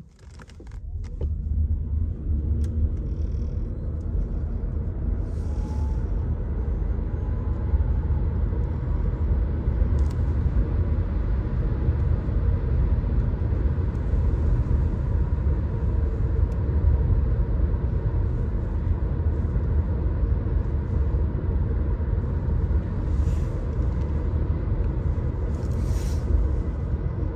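Volkswagen e-Golf's 100 kW electric drive accelerating hard from a standstill: a heavy, steady low rumble of road and tyre noise builds within the first two seconds. A faint whine rises in pitch over the first several seconds as speed climbs.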